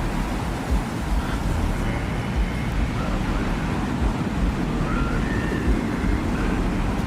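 Steady rumbling wind in a desert ambience, with gusty low thuds, and faint short whistling tones drifting above it.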